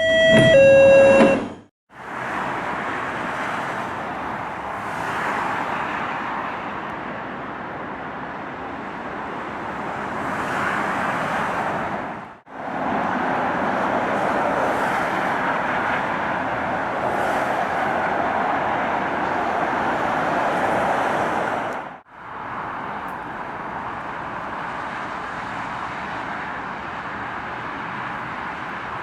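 A brief electronic tone sting, then three clips of passenger trains passing at speed, joined by hard cuts: a steady rushing of wheels on rail and air, swelling and easing within each clip.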